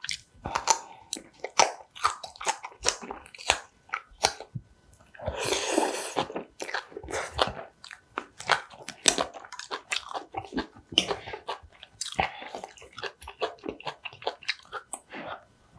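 Close-miked chewing and crunching of spicy green onion kimchi (pa-kimchi) with noodles: many irregular wet clicks and crunches, with a longer noisy burst about five seconds in.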